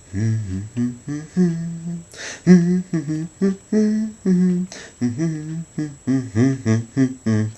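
A man humming a tune in a series of short held notes.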